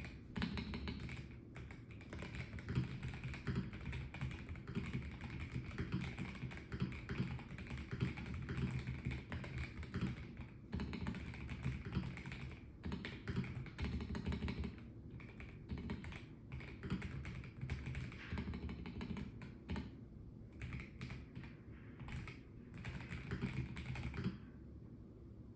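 Melgeek Mojo84 plastic mechanical keyboard being typed on in runs of keystrokes with brief pauses, the typing stopping near the end.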